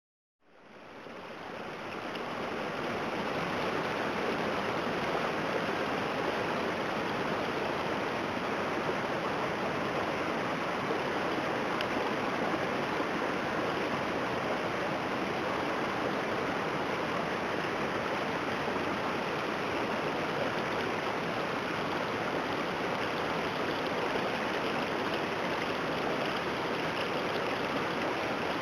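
Floodwater rushing steadily as a flash flood, runoff from saturated hillsides. It fades in over the first couple of seconds, then holds level.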